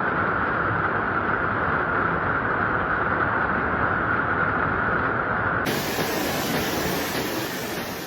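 Steady rushing, hissing noise. About five and a half seconds in it changes abruptly to a brighter, higher hiss.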